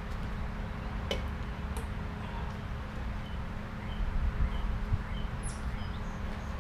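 Small bird chirping a short, high, repeated note several times over a steady low outdoor rumble, with a single light click about a second in.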